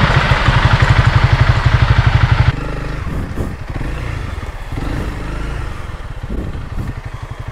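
Honda CRF300L Rally's single-cylinder engine running loud under throttle, with a fast, even beat. A little over two seconds in, the throttle closes and the engine drops to a quieter, uneven running with some light clatter.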